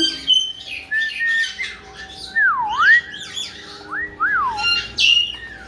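Caique parrots squawking in short, harsh calls, with a few clear whistles in the middle that swoop down and back up.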